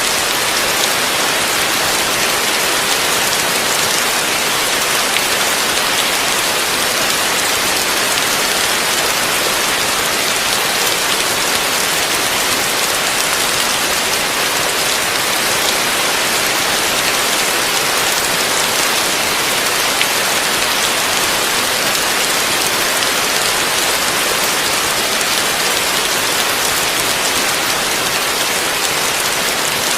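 Heavy rain falling steadily, a dense even hiss of drops with no change or let-up.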